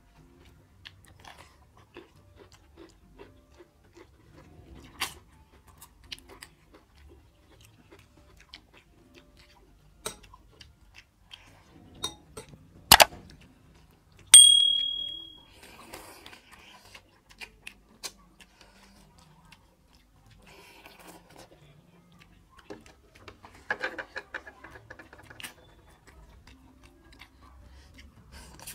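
Close-up eating sounds: chewing and rice and curry mixed by hand, with small clicks against metal plates. About halfway, a sharp click followed by a bright, ringing ding that fades over about a second: a subscribe-button sound effect.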